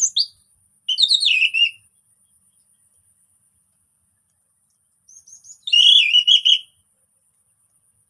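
Orange-headed thrush (anis merah) singing in short phrases: a brief note at the start, a quick falling warble about a second in, and a longer, richer warbled phrase from about five to nearly seven seconds.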